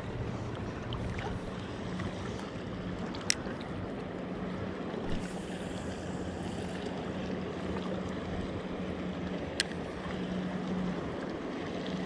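Small waves washing at the shoreline as a steady hiss of water noise, under a faint steady low hum. There are two sharp clicks, one about three seconds in and one near ten seconds in.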